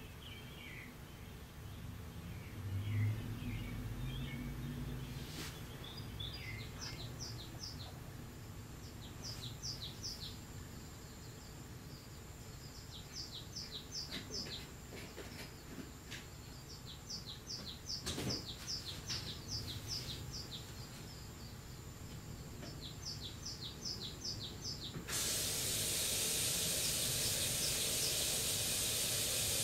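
Bird chirps and calls from a television, mostly quick runs of three to five short high notes repeated every second or two. About 25 seconds in, a steady hiss comes in suddenly and is the loudest sound.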